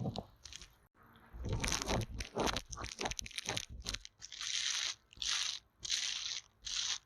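Close-miked ASMR trigger sounds: about two seconds of dense crackly crunching, then four short scratchy brushing strokes in a row.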